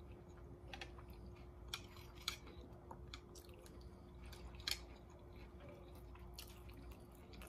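A person chewing orange chicken, faint and wet, with a few short sharp clicks about two and four and a half seconds in, over a steady low hum.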